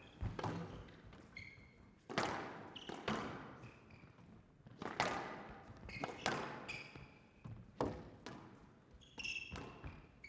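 A squash rally: the ball struck hard by rackets and hitting the walls about once a second, each hit echoing in the court, with short squeaks of shoes on the court floor between the hits.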